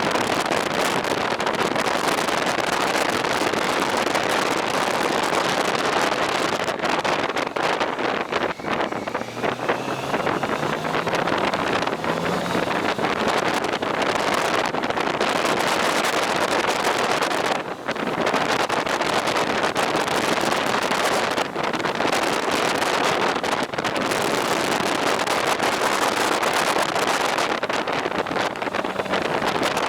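Steady wind rush over the camera microphone while riding along the road, with a faint engine note rising in pitch about ten seconds in.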